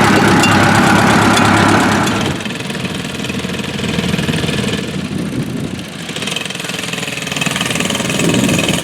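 Stationary engine running steadily at idle, louder for the first two seconds or so and then dropping in level.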